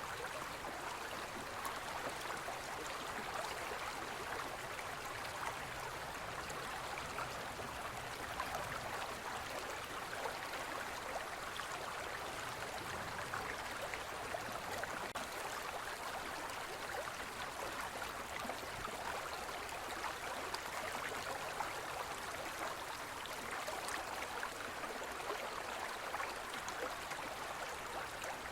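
Forest river flowing steadily over stones, a continuous gentle rushing and burbling of water.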